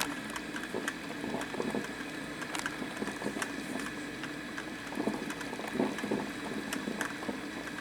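Black & Decker thermal-carafe drip coffee maker brewing: a steady bubbling hiss with irregular crackling ticks.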